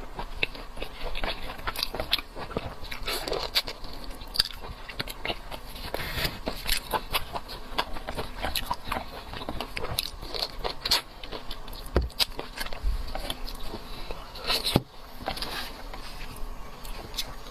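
Close-miked chewing and biting of seafood, with a dense run of short wet crackling clicks throughout.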